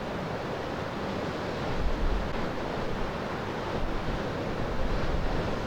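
Wind and ocean surf: a steady rush of noise, with gusts buffeting the microphone as low rumbles in the middle.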